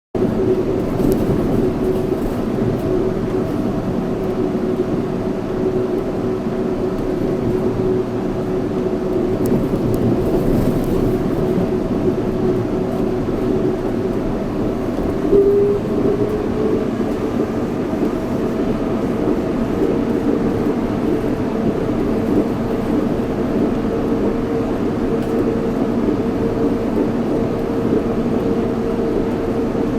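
Yurikamome 7300-series rubber-tyred automated guideway train running at speed: steady rolling noise with a motor whine that steps up in pitch about halfway through.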